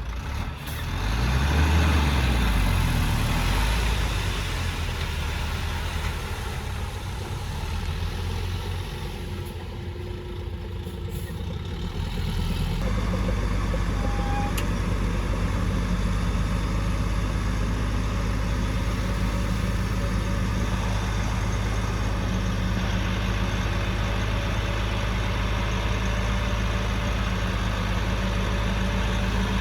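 Heavy construction-machine diesel engine running. It revs up briefly about a second in and falls back, and about 13 seconds in the sound changes abruptly to a louder, steady engine drone.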